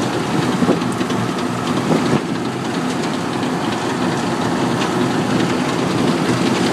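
Farm tractor's engine running steadily as it works the field.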